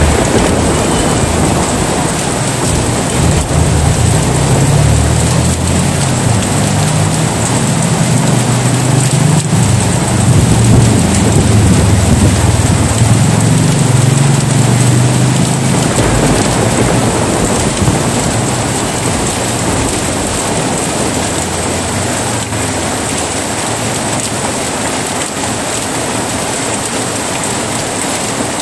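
Steady heavy rain hissing, with a long low rumble of thunder that rolls through the first half and fades away about halfway through.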